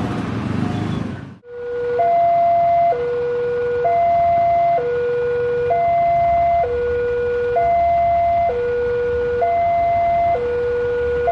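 Railway level-crossing warning alarm sounding a steady two-tone signal, a low and a high tone taking turns, each lasting just under a second, warning that a train is approaching. Traffic noise is heard before it and cuts off about a second and a half in, when the alarm starts.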